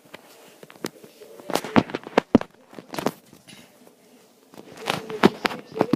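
Fireworks crackling: two quick clusters of sharp pops and cracks, about a second and a half in and again near the end.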